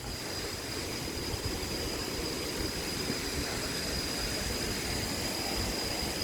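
Steady rushing of a waterfall in the rainy season, starting abruptly and holding level, with a thin steady high whine running above it.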